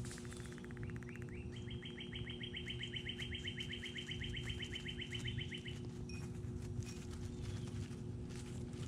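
A songbird singing a trill of rapid downslurred notes, about nine a second, that stops about six seconds in. A steady low hum runs underneath.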